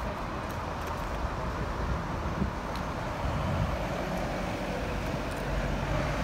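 Road traffic: vehicles running past with a steady low rumble, getting a little louder about halfway through.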